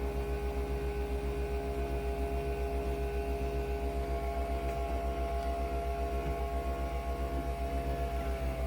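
Nespresso Vertuo Next brewing: a steady motor whine from the spinning capsule over a fast, even low pulsing from the pump.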